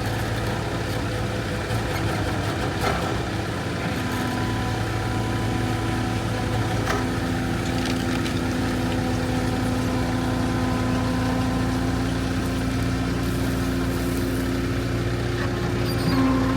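Diesel engine of heavy construction equipment running steadily on a job site, with a couple of faint knocks.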